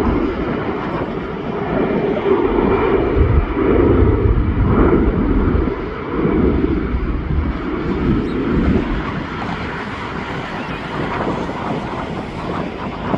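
Jet airliner's engines running loud with a deep, surging rumble that eases off over the last few seconds, with wind buffeting the microphone.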